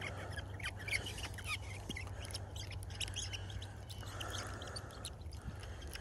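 Scattered short, high bird chirps over a low steady background hum, with a few faint clicks.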